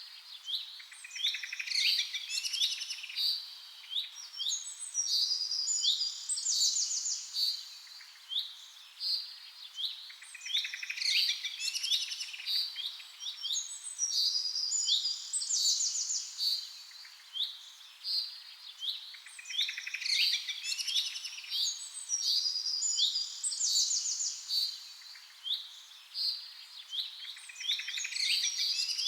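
Birds singing: clusters of quick high chirps and rapid trills. The same run of calls comes back about every nine seconds, like a looped recording.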